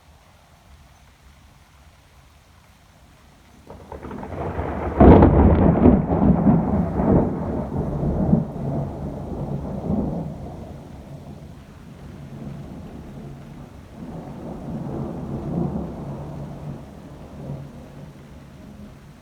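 Thunder: a rumble rises about four seconds in to a loud crack, then rolls on in several peaks for about five seconds. A weaker second roll of rumbling comes near the end.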